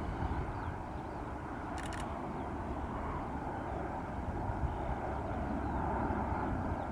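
Low, steady rumble of a distant jet airliner, slowly growing louder.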